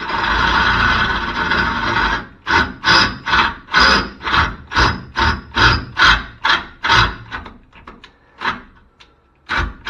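A hand tool worked back and forth on metal: a steady rasping for about two seconds, then rhythmic rasping strokes at about two a second, which pause briefly and start again near the end.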